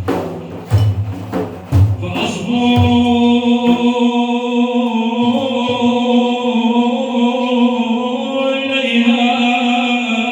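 Religious praise chant: a few deep hand-drum strikes, then from about two seconds in a voice holds one long, steady chanted note.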